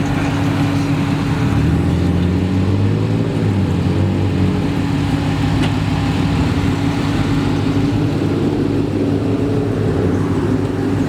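Supercharged Hellcat V8 engine idling steadily, with a brief rise in revs about two seconds in.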